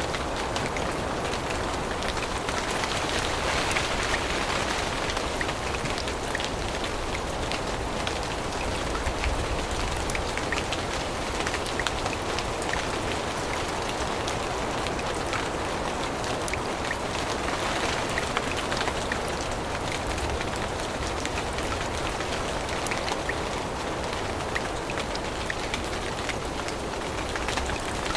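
Steady rain falling in a forest, a dense patter of individual drops over an even hiss of rainfall.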